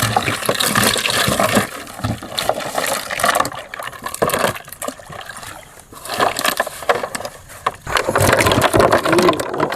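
Irregular splashing and sloshing of water, with short knocks, as a fishing net is hauled out of the water.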